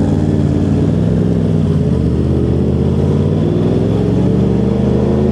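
Motorcycle engine running while riding, heard from the rider's helmet; its pitch sags a little midway, then rises steadily as the bike speeds up near the end.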